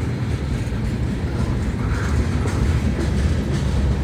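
Florida East Coast Railway local freight train rolling past, a steady low rumble of wheels on rail.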